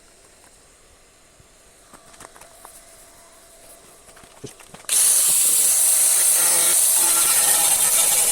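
A few faint clicks, then about five seconds in a loud, steady hiss of compressed air from a pneumatic tool, such as a paint spray gun or air blow gun, starts suddenly and keeps on.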